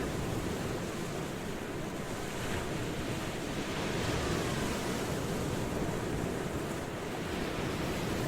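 Ocean surf washing steadily, a continuous rushing hiss of waves that swells slightly in the middle.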